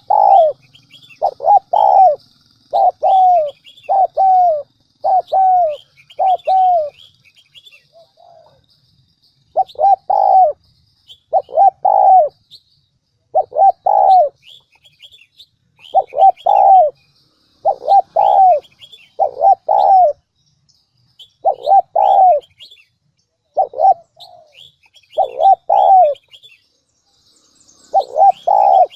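Spotted dove cooing: the loud, repeated territorial call of a decoy male, given in short phrases with brief pauses. Faint high chirps from small birds sit beneath it.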